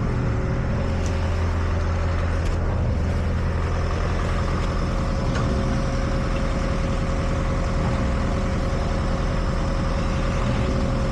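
A heavy engine idling steadily with a low, even hum.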